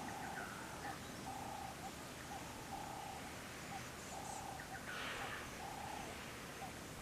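An animal call: a short, level hooting note repeated evenly about every second and a half, each followed by a brief softer note, over steady outdoor hiss.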